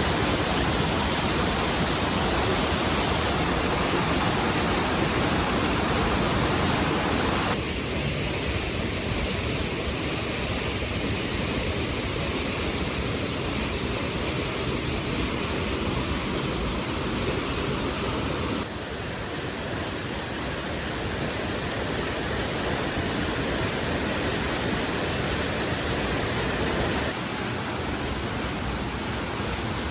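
Waterfall: a steady rush of falling water that changes tone abruptly about a quarter of the way in, again past the middle, and once more near the end.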